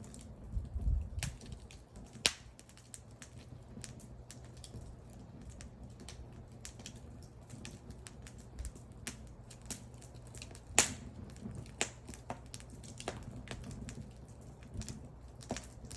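Wood fire crackling: irregular snaps and pops of burning wood, with two sharp, louder pops about two seconds in and near eleven seconds, over a low steady rumble.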